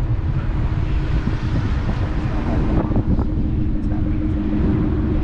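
A car engine running at idle, a low rumble with a steady hum that settles in about halfway through, with wind buffeting the microphone.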